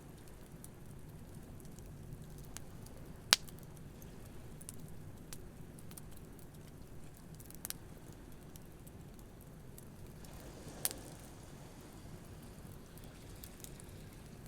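Wood campfire crackling, with scattered sharp pops and one loud pop about three seconds in, over a steady low wash of surf.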